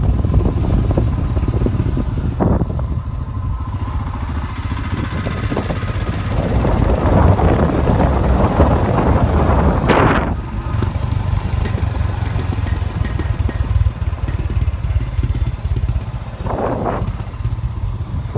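Royal Enfield Himalayan motorcycle's single-cylinder engine running, under a hiss of rushing air that swells and fades, loudest in the middle.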